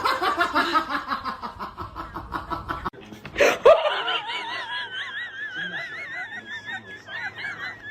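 A person laughing hard in quick rapid pulses for about three seconds. After a sharp burst, a high, wavering, warbling sound with a regular wobble in pitch continues to the end.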